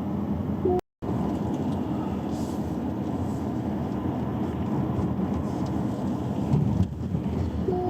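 Steady car road and tyre noise while driving, with a short two-note electronic tone, low then high, about a second in and again near the end. The sound drops out completely for a moment just before the first second.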